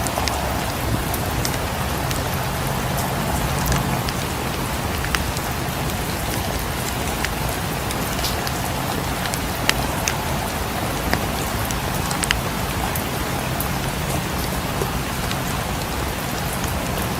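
Steady rain falling, an even hiss with many scattered sharp clicks of drops or crackles through it.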